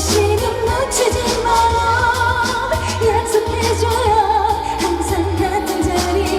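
Live pop ballad with female vocals holding long, wavering notes over a backing track with bass and a regular drum beat.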